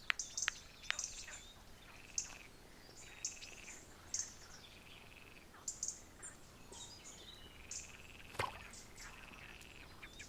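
Faint dusk forest ambience: small birds chirping in short repeated calls, about one a second, with a few sharp clicks near the start and one about eight seconds in.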